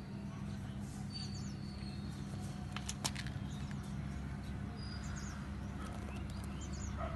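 Small birds chirping, short high calls with quick falling glides every second or so, over a steady low hum.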